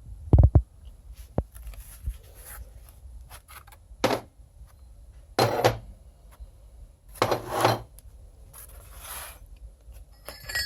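Metal parts being handled on a workbench: a heavy thump about half a second in, then several short clinks and scrapes of metal against metal.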